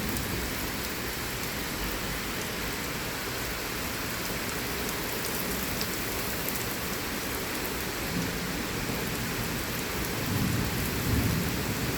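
Heavy thunderstorm rain falling steadily in a dense hiss. About ten seconds in, a low rumble of thunder swells up under it.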